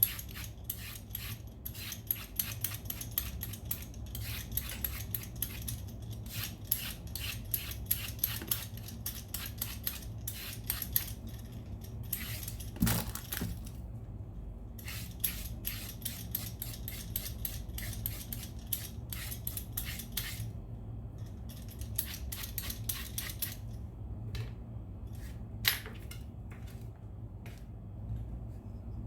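Quick scraping strokes of a handheld vegetable peeler on a root vegetable, several a second, in runs broken by short pauses, with an occasional louder knock.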